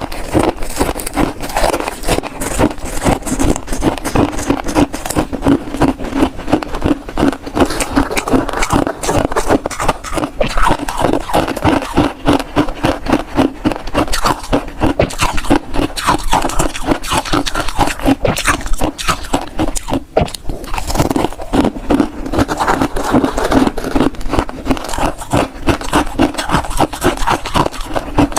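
Freezer frost being bitten and chewed, a continuous run of rapid crunching and scraping.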